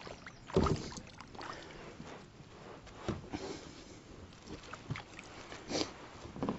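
A few knocks and bumps on a fishing kayak, the loudest about half a second in, with faint water sounds between them.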